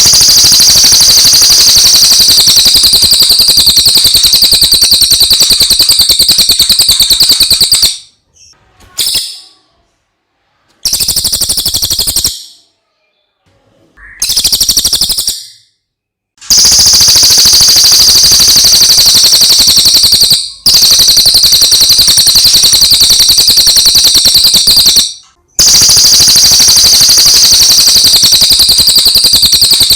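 Cililin (serindit, a small hanging parrot) singing a loud, shrill, very fast trilling chatter in long unbroken runs. A third of the way in, the runs break into a few short bursts with gaps between them, then the long trills resume.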